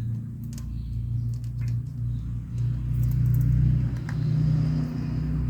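A steady low mechanical hum, like a running motor, rising a little in pitch a little past the middle, with a few faint metallic clicks.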